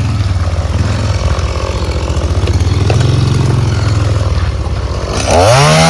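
Small two-stroke chainsaw idling unevenly just after being pull-started. Near the end it revs up quickly to a high, steady whine at full throttle, ready to cut.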